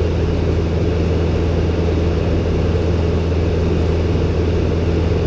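Robin DR400-120 light aircraft's four-cylinder Lycoming piston engine and propeller droning steadily in cruise flight.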